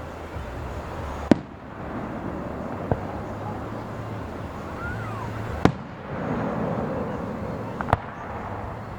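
Fireworks display: aerial shells bursting with four sharp bangs spaced a couple of seconds apart, the third and fourth loudest, over a steady background of outdoor crowd noise.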